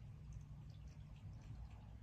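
A cat lapping water from a stainless steel cat water fountain: faint, quick, irregular ticks, about four a second, over a low steady hum.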